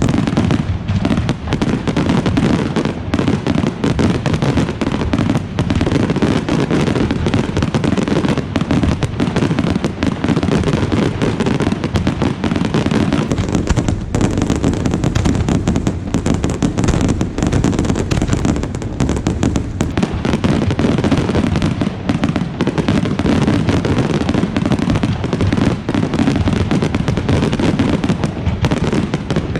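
Fireworks display in a dense, continuous barrage: bursts and crackles packed together with no pause.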